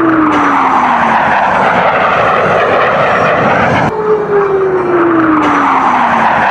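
Jet aircraft passing low overhead: loud rushing engine noise with a whine that falls steadily in pitch as it goes by. The sound cuts and the same pass is heard again starting about four seconds in.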